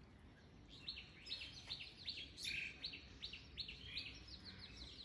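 Faint bird chirps: a run of short, high, falling chirps, a few each second.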